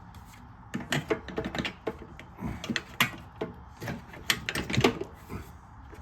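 A fan shroud being handled and turned around against a radiator, giving an irregular clatter of knocks, clicks and scrapes as its mounting brackets are test-fitted.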